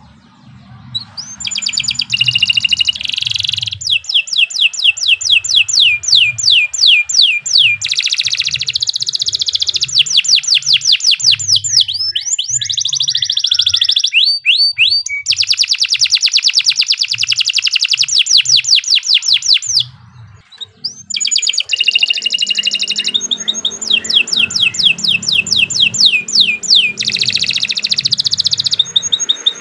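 Domestic canary singing long song phrases of rapid trills and fast descending sweeps, with a brief break about two-thirds of the way through.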